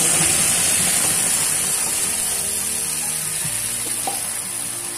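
Ground raw mango paste pouring into hot mustard oil in a frying pan and sizzling, loudest at first and slowly dying down as the paste cools the oil.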